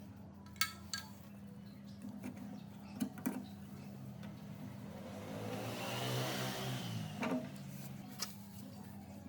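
Workshop sounds: a few sharp metallic clicks and knocks over a steady low hum. About five seconds in, a small motor whirs for about two seconds, its pitch rising and falling, then stops with a click.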